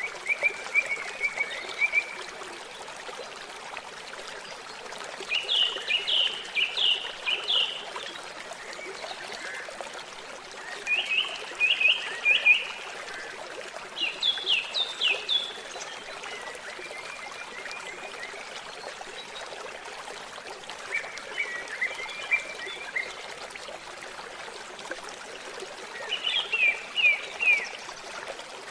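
A songbird singing short phrases of rapid, downward-slurred chirps every few seconds, some phrases pitched lower than others, over a steady trickle of water.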